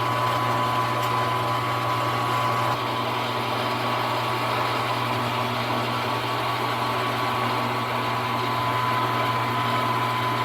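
Milling machine running at a steady speed, its spindle turning a wiggler edge finder: a constant motor hum with a thin, steady high whine over it.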